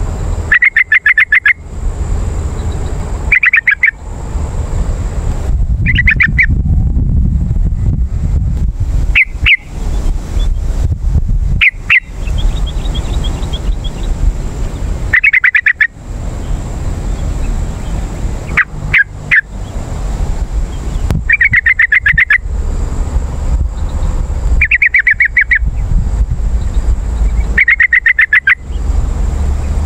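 Yellow-vented bulbul (trucukan) calling: short, rapid bubbly chattering phrases about a second long, repeated roughly every three seconds, about ten in all. A constant low rumble runs underneath.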